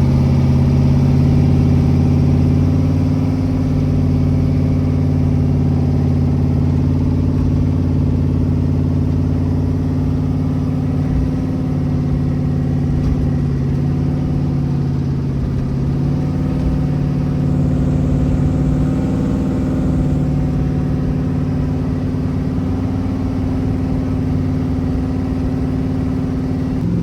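Twin-turbo Chevy Caprice's small-block V8 idling steadily just after starting. Its idle note shifts slightly about sixteen seconds in.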